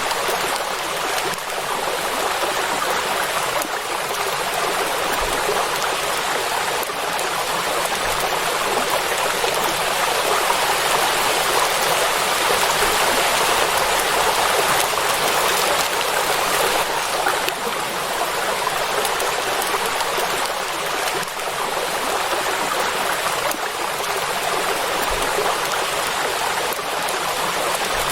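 Rain falling on the surface of a lake: a steady, even hiss of water that does not change.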